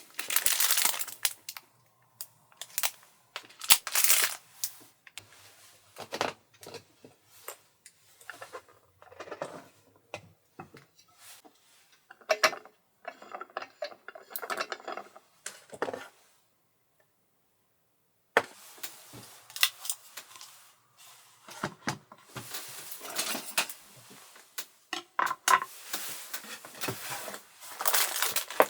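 Close-up handling sounds: clinks, taps and rustles of small objects like cookware and utensils being moved and set down, with a silent break of about two seconds past the middle.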